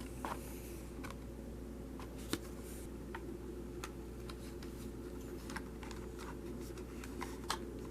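Quiet steady low hum with a few faint, scattered clicks.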